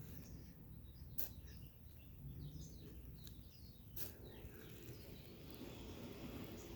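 Faint birds chirping over a low, steady outdoor rumble, with two sharp clicks about a second in and near the middle.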